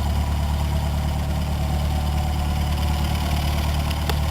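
Cessna 152's four-cylinder Lycoming piston engine and propeller running at a steady drone, with a single sharp click about four seconds in.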